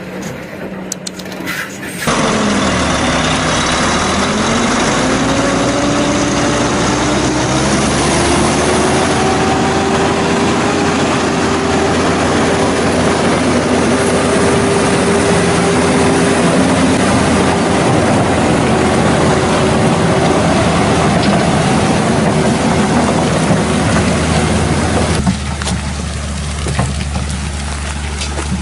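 Heavy logging truck's engine pulling hard under load, with loud rushing noise. Its pitch dips briefly, then climbs over a few seconds and holds steady. Near the end the sound cuts to a quieter, steady low engine hum.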